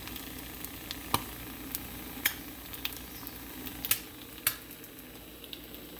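Water spraying from a homemade clay cicada sprinkler through its drilled, strainer-like holes: a steady hiss with scattered sharp ticks of droplets.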